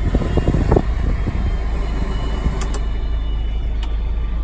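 Toyota 2C naturally aspirated four-cylinder diesel idling steadily, heard from inside the cab as a low hum, with two brief light clicks in the second half.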